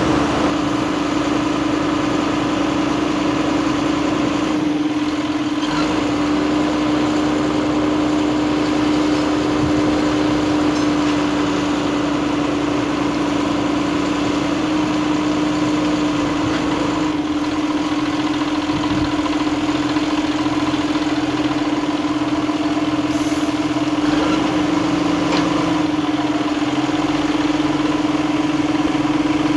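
John Deere 7230R tractor's six-cylinder diesel engine running steadily, a loud constant drone with an open exhaust pipe.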